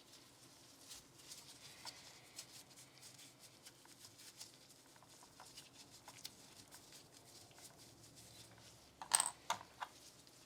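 Hand-handling noises from working on a Glock 19 pistol: faint scattered clicks and rustling, then a quick run of three or four louder, sharp clicks of metal and polymer parts near the end.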